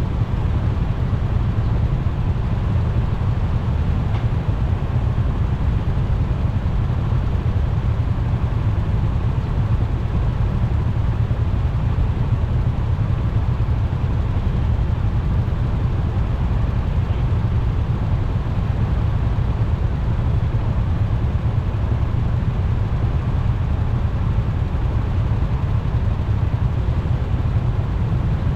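Steady low rumble of a moving motorcycle ride: engine, tyre and wind noise on the rider's microphone, even throughout with no sudden events.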